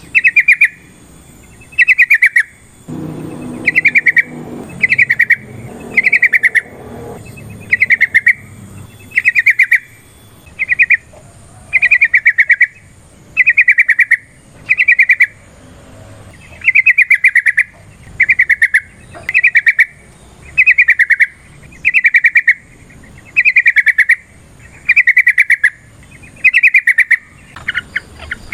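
A yellow-vented bulbul singing its loud, repeated song: a short, bubbly burst of rapid notes, given over and over about every second and a half.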